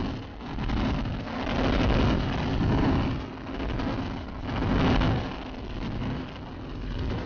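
Motorcycle engine running under a heavy rush of wind on the microphone. The noise swells and fades every second or so.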